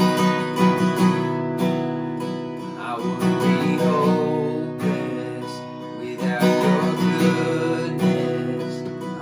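Acoustic guitar strummed in a steady rhythm, playing the instrumental intro of a worship song before the singing begins.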